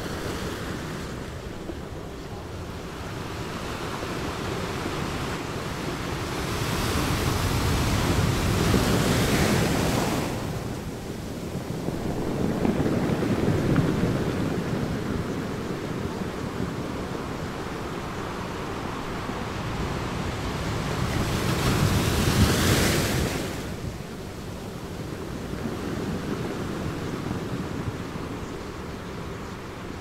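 Ocean surf: a steady wash of waves, with three larger waves swelling and breaking, about eight, thirteen and twenty-two seconds in.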